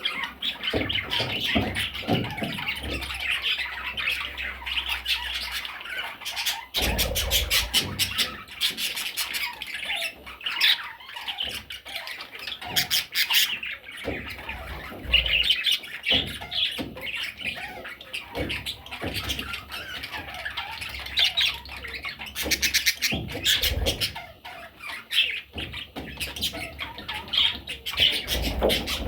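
Parrot chicks calling throughout: harsh squawks and buzzy chatter, broken by several bursts of rapid pulsed calls, with a few low bumps.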